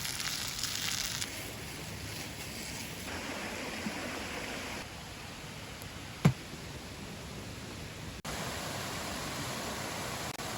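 Steady rushing outdoor noise that changes abruptly at several cuts, with one sharp knock a little past halfway.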